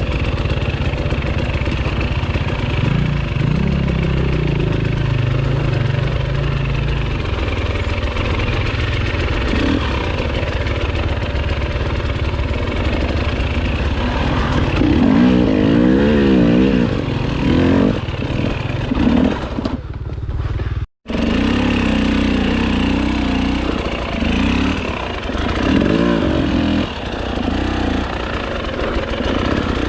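Enduro dirt bike engine running under a rider on trail, the revs rising and falling again and again as the throttle is worked, with a brief total cut-out of the sound about two-thirds of the way through.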